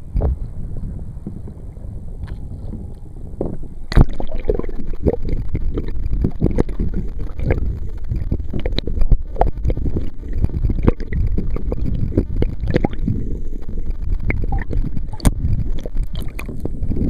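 Water gurgling and slapping against a kayak hull, with wind rumbling on the microphone. About four seconds in there is a sharp knock, and after it the sound is louder, with frequent small knocks.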